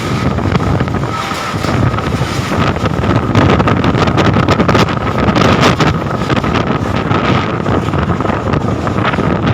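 Strong gusting wind rushing and buffeting the microphone in loud, uneven surges, with many short crackles and rattles. A steady high tone runs underneath.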